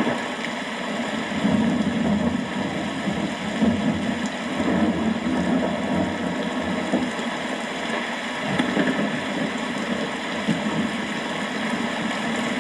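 Steady rain falling, with a low rumble of thunder that swells and fades a few times.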